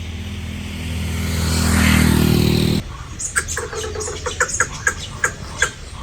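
A vehicle engine runs by on the road, rising in level for about two seconds, then cuts off abruptly about three seconds in. It gives way to short, sharp chirps repeating several times a second.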